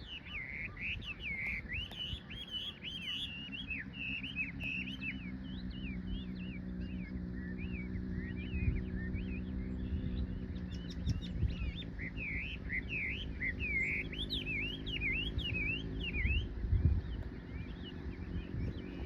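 Small birds chirping and twittering in quick, overlapping calls, thinning out for a few seconds in the middle before picking up again. A steady low hum sits underneath from about five seconds in until near the end.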